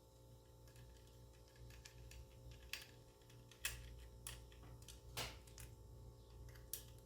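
A handful of light, separate clicks and taps from work on an open laptop while an SSD is fitted and screwed in, the sharpest about halfway through, over a low steady hum.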